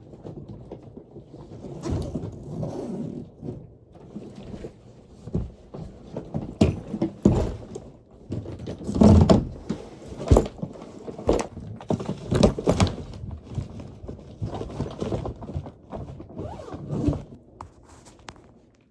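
Irregular thumps, knocks and rustles of a suitcase being handled and packed.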